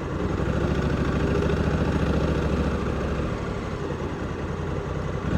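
Honda Africa Twin 1100's parallel-twin engine running steadily at low revs. It picks up slightly about half a second in and eases off a little in the second half.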